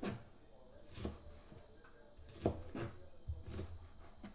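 Kitchen knife chopping through lettuce onto a cutting board, four separate cuts about a second apart, each a crisp crunch with a dull knock.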